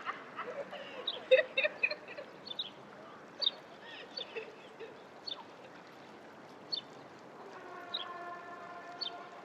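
Birds calling outdoors with short, scattered chirps. Near the end a steady tone with several pitches at once holds for about two seconds.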